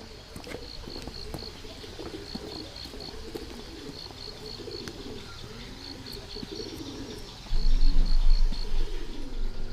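Doves cooing over and over, with a small bird chirping in short quick runs of high notes. A loud low rumble sets in near the end.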